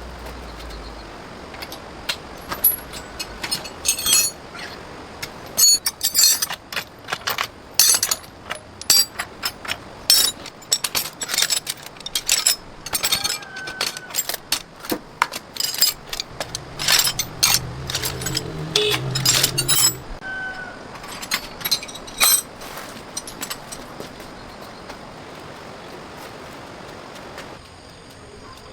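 Metal tools and parts clinking and knocking in quick, irregular strikes, with a brief low hum partway through, then only a steadier quiet background for the last several seconds.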